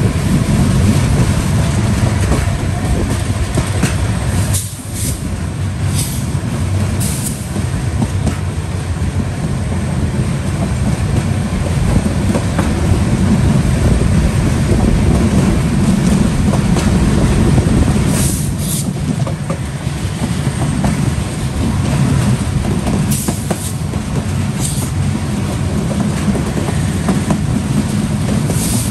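Intercity passenger train running along the track, heard from aboard: a steady, loud rumble and rattle of the coaches' wheels on the rails, with a few brief high hisses along the way.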